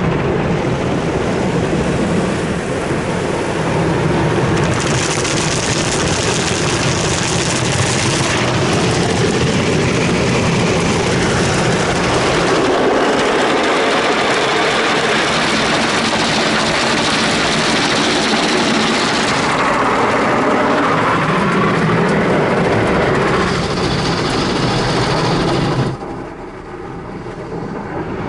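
Ryko SoftGloss XS automatic soft-cloth car wash at work on a car: loud, continuous noise of water spray and machinery that changes every few seconds, with a high hissing spray about five seconds in, and a sharp drop in loudness near the end.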